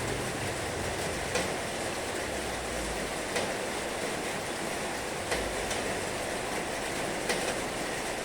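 Heavy rain falling steadily, with a sharp tap, like a drip, about every two seconds.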